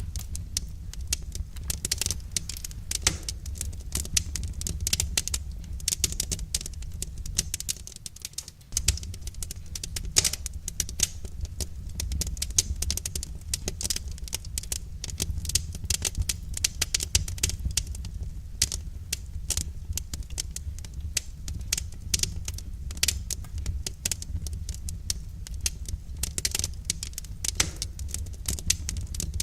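Wood fire crackling in a fireplace: dense, irregular pops and snaps over a steady low rumble, dipping briefly about eight seconds in.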